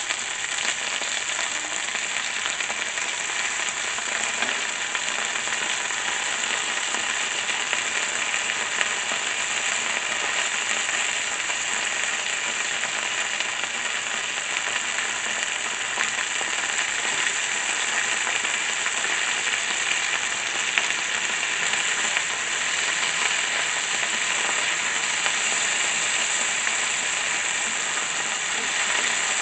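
Seasoned chicken breast frying in a little hot oil in a pot on high heat: a steady sizzle, peppered with many small crackles.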